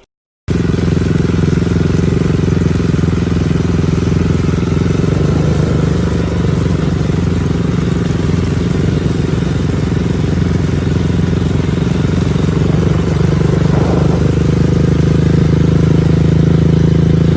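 Motorcycle engine running loud and steady at a nearly constant pitch; it starts abruptly about half a second in.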